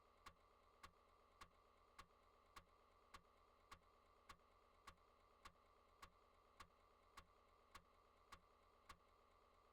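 Faint, evenly spaced clicks, a little under two a second, that stop near the end: the idle click of a Commodore Amiga floppy drive.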